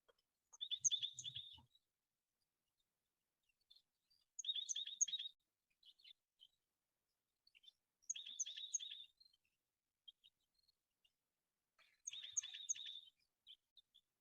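A songbird singing the same short, rapid trilled phrase four times, about every four seconds.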